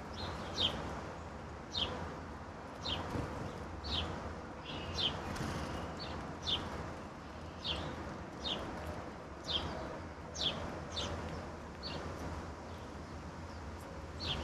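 Songbird giving short, sharp, downward-slurred chip calls, roughly one a second, over a steady low background hum.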